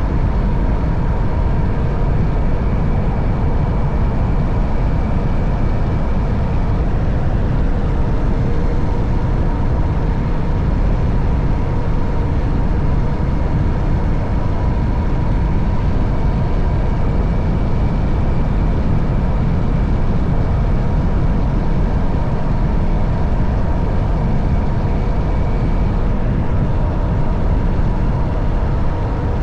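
Wind rushing over the microphone on a moving Honda CB190R motorcycle, with the bike's single-cylinder engine running as a steady hum at an even speed.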